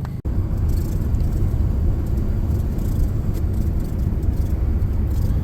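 Truck driving down the road, its engine and road noise making a steady low rumble heard from inside the cab.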